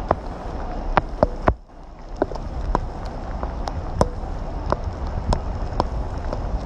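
Rain falling: a steady hiss with frequent sharp taps of drops striking close by, over a low wind rumble. The sound drops away briefly about a second and a half in, then returns.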